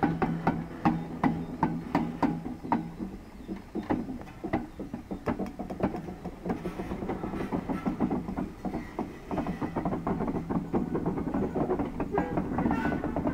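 Vintage Southern Region electric multiple unit coaches rolling slowly past during shunting, wheels and running gear clicking and clanking on the track. A rhythmic music track fades out in the first few seconds.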